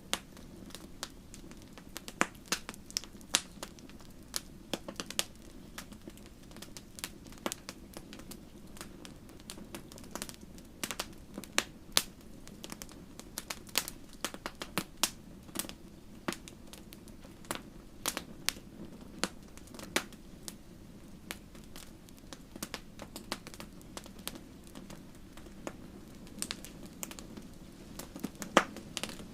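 Wood fire crackling: irregular sharp pops and snaps, sometimes several in a second, over a soft steady low hum.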